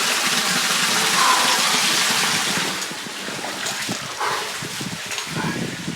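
Canyon creek water rushing loudly, dropping off about halfway through to quieter sloshing and splashing as a person swims through a deep pool.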